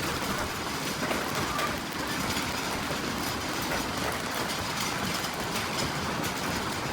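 Strong wind blowing across a phone's microphone: a steady rushing roar.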